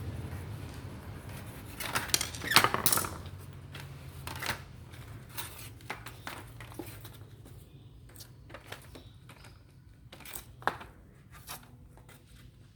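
Scattered clicks, taps and a short scrape of small plastic and metal parts being handled while a mini fly-repellent ceiling fan is taken apart, the loudest cluster about two to three seconds in, over a faint low hum that fades away.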